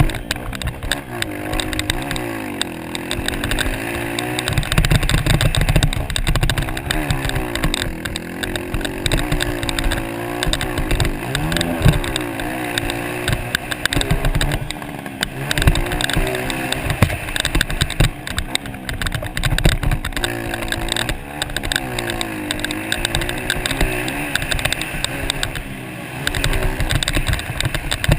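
Motocross dirt bike engine revving up and down over and over as the bike is ridden hard around the track, with the throttle opening and closing.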